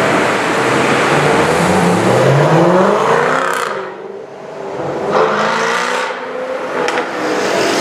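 Range Rover Sport SVR's supercharged V8 through an Overfinch titanium exhaust, accelerating hard with a rising pitch, then fading briefly about four seconds in before engine sound picks up again.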